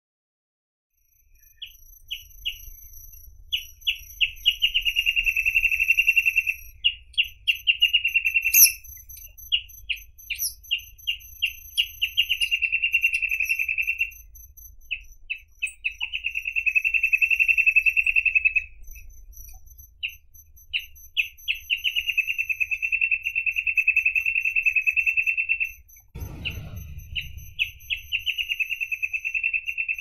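Reed parrotbill singing: about six phrases with short gaps between them, each starting with a few separate notes that speed up into a rapid, even trill held for a few seconds. The song begins about a second in, over a faint low rumble, and a dull thump comes near the end.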